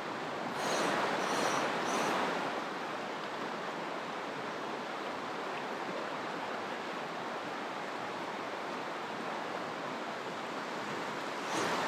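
Steady rush of river rapids, with a louder swell of noise about a second in and another near the end.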